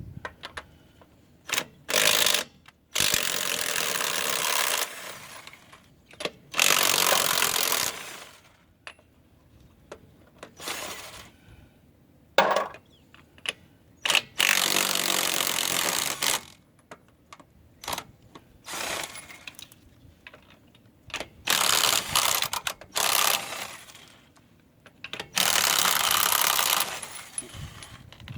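Aerosol spray can being sprayed in repeated hissing bursts, each from a moment to two or three seconds long, with short pauses between.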